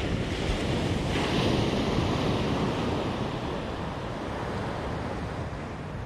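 Ocean surf breaking on a beach, with a wave washing in about a second in and slowly fading, and wind rumbling on the microphone.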